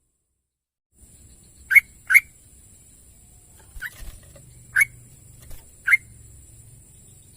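Yellow-vented bulbul giving short, sharp calls: two close together, then three more spaced about a second apart, over a steady high hiss that starts after a second of silence.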